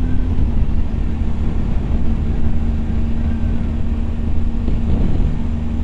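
BMW R1250GS Adventure's boxer twin engine running at a steady cruising speed, its hum holding one pitch, under heavy wind rumble and road noise.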